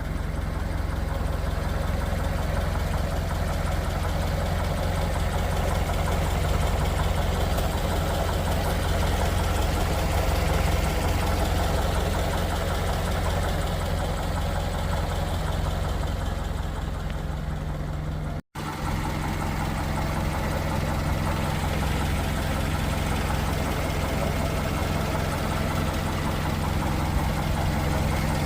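1938 Buick Special's straight-eight engine idling steadily, with one momentary break in the sound about two-thirds of the way through.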